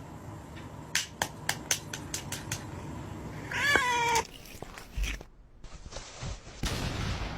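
A domestic cat meows once, a short call about halfway through, after a quick run of sharp clicks or taps. A low rumble of handling noise comes near the end.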